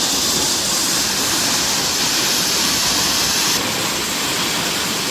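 Waterfall rushing: a loud, steady hiss of falling water whose high part drops a little about three and a half seconds in.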